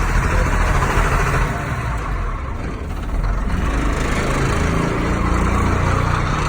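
Caterpillar 3116 inline-six diesel in a 1996 GMC Topkick running shortly after a cold start. Its sound drops off for a couple of seconds about a second and a half in, then settles back into a steady idle.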